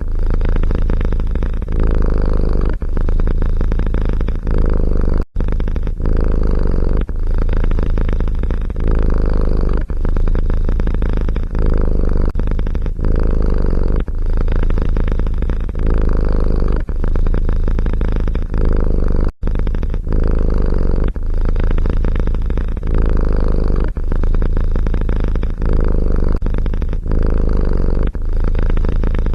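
A domestic cat purring close to the microphone, loud and continuous, with a short break about every second as it breathes in and out.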